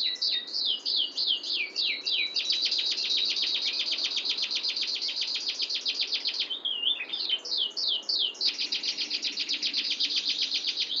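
Domestic canary singing: runs of quick down-sweeping whistled notes alternate with long, fast, tight rolling trills. One roll runs from about two seconds in to about six and a half seconds, and another starts about eight and a half seconds in.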